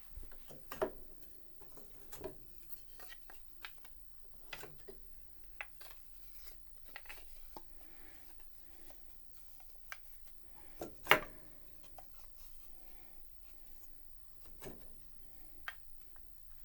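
Scattered light clicks and knocks of piano keys and small wooden action parts being handled, with one sharper knock about eleven seconds in.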